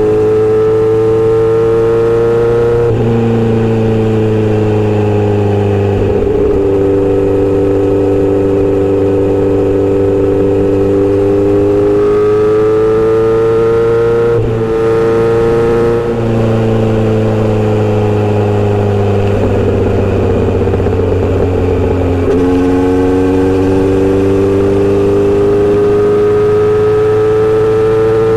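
Inline-four motorcycle engine and exhaust under way, its pitch climbing and dropping several times as the bike speeds up, shifts and eases off.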